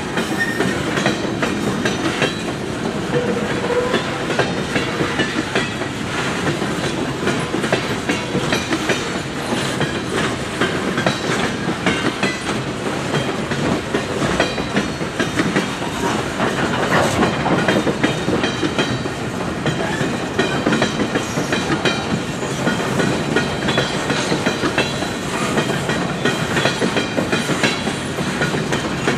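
Coal train's hopper cars rolling past: a steady rumble of wheels on rail, with dense clicking from the wheel sets.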